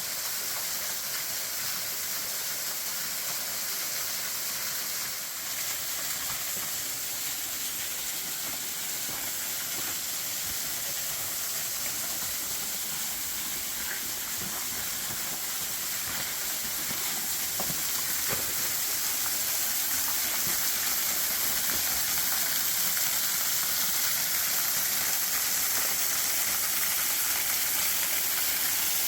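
Keyhole Falls, a waterfall, rushing steadily, growing a little louder about two-thirds of the way through.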